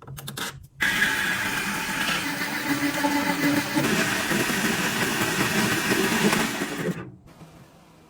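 A small electric motor or power tool whirs steadily for about six seconds, starting abruptly and cutting off shortly before the end.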